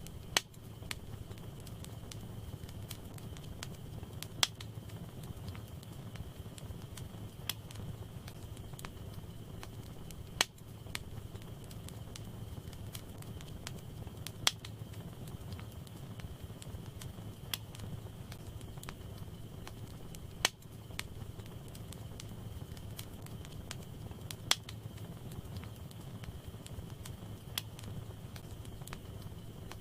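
Wood fire burning in a fireplace: a steady low rumble of flames with faint crackling, broken by a sharp pop from the burning logs about every three to four seconds.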